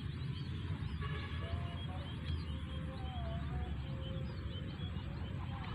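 Several small birds chirping and whistling in short, scattered calls, some rising or falling in pitch, over a steady low rumble.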